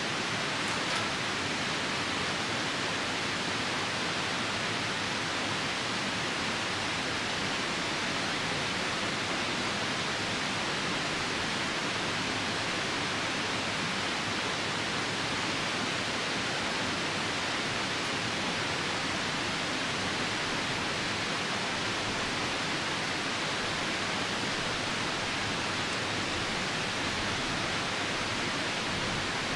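Steady rushing of a nearby river mixed with falling rain, an even wash of water noise.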